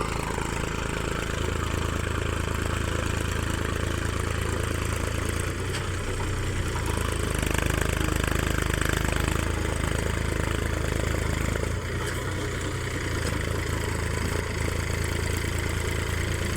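Mahindra 275 tractor's three-cylinder diesel engine running steadily, getting a little louder for a few seconds midway.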